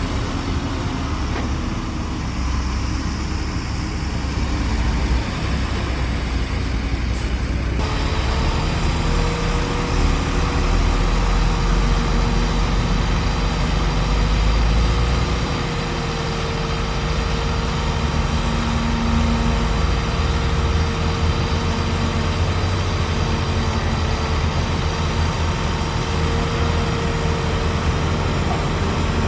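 Heavy diesel earthmoving machinery running, a continuous low engine rumble. About eight seconds in the sound changes abruptly, and from then on a steady whine sits over the engine.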